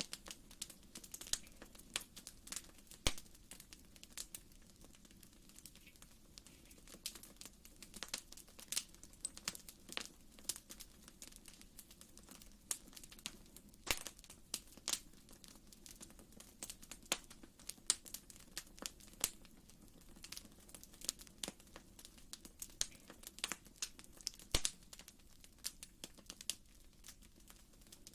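Fire crackling in a fireplace: irregular sharp pops and snaps of varying loudness over a faint, steady low rumble of the flames.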